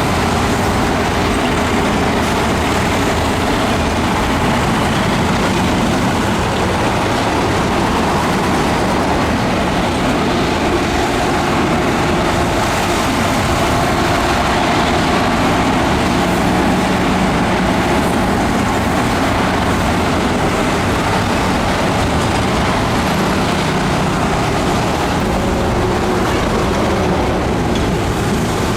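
Heavy diesel engine of earthmoving equipment running steadily and loudly, its pitch shifting slightly now and then.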